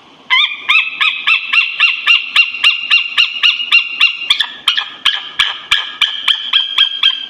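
Eagle calling: a rapid series of high, piping notes, about three a second.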